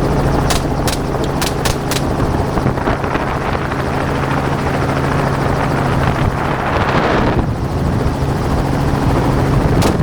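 Helicopter in flight, a steady drone with an even low hum. A quick string of about five sharp cracks in the first two seconds, likely the shooters' gunfire, and one more just before the end.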